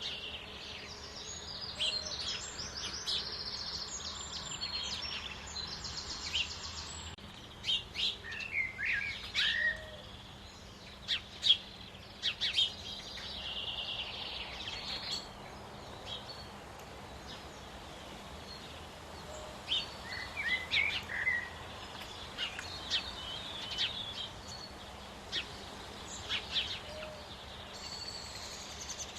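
Several small songbirds singing and calling: high buzzy trills in stretches, with sharp chirps and short call notes scattered in between.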